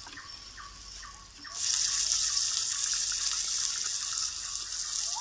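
A little water is poured into a hot pan of frying onion, chili and tomato. About a second and a half in it sets off a sudden, loud, steady sizzle.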